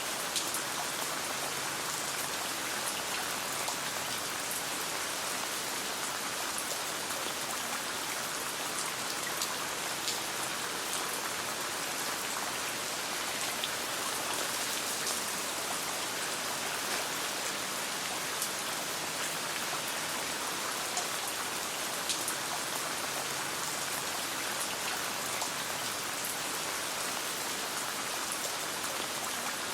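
Steady rain, with many small sharp ticks scattered throughout.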